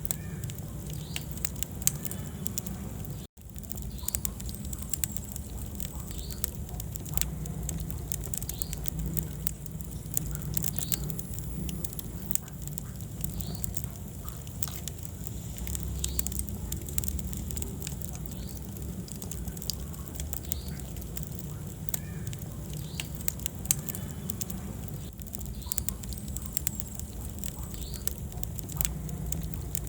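Wood fire burning in a fireplace: a steady low rumble of flames with irregular sharp crackles and pops from the burning logs. The sound cuts out for an instant about three seconds in.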